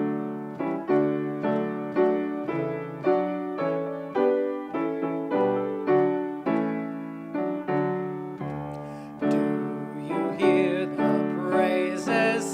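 Piano playing the introduction to a hymn: chords struck in a steady rhythm, each note dying away before the next.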